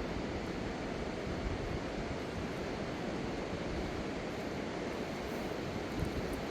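Fast-flowing river water rushing steadily, a constant even wash with no break.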